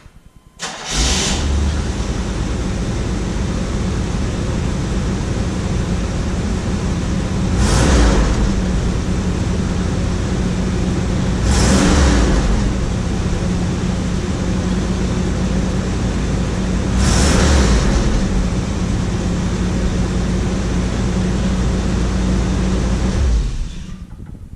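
1978 Corvette L48 350 small-block V8 cranking briefly, catching about a second in and idling, with three short blips of the throttle, then switched off near the end. It may be a cold start.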